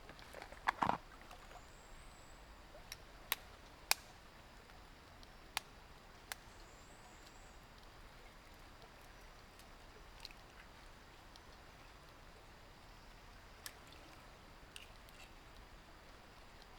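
Quiet outdoor ambience with a few sharp clicks and knocks of handling at camp, the loudest within the first four seconds and one more about two-thirds of the way through, plus two faint high chirps early on.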